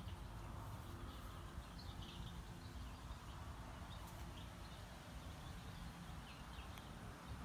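Quiet outdoor ambience: a steady low rumble with faint, short bird chirps scattered throughout and a few soft clicks.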